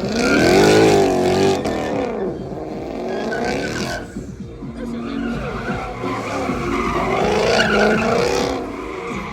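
Car engine revving hard, rising and falling in pitch, with tyres squealing and skidding as in a burnout or donuts; loudest about a second in and again near the end.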